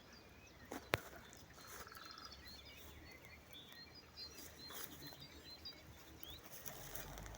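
Faint chirping of small birds, many short high calls scattered throughout, with one sharp click about a second in and a brief rapid trill near two seconds.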